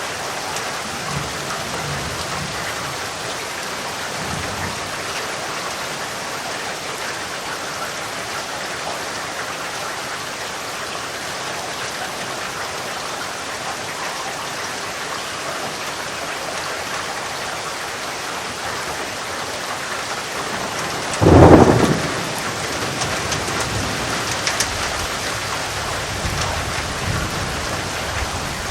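Steady rain, with low rumbles of thunder. About 21 seconds in comes a sudden loud thunderclap, followed by a longer rolling rumble.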